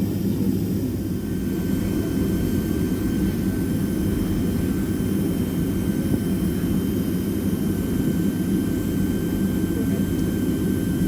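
Cabin noise inside a Boeing 767-300ER on the ground before takeoff: a steady low rumble from the jet engines and airframe, with faint steady high-pitched whines.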